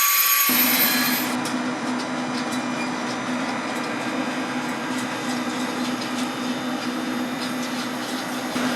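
Train running on the line: a steady low hum over broad rail noise with faint ticks. The sound changes abruptly about half a second in and again near the end.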